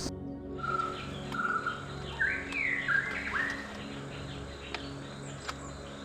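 Small bird calling: two short whistled notes, then a quick run of rising and falling chirps, followed by a few faint clicks.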